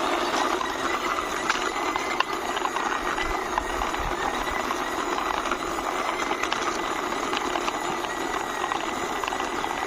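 Plastic toy covered van pushed along by hand, its small wheels rolling with a steady rattle and many light clicks.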